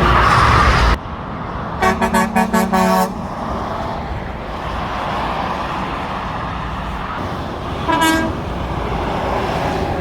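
Lorry horn sounded in a rapid run of about five or six short blasts about two seconds in, over the steady hum of motorway traffic passing below. Another single brief horn toot comes near the end. A loud rush of passing traffic cuts off abruptly about a second in.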